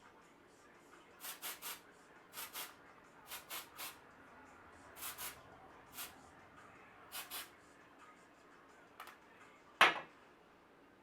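Aerosol texture spray hissing out in short puffs, mostly in pairs or threes, as it is sprayed up into the hair. A louder, sharper burst comes near the end.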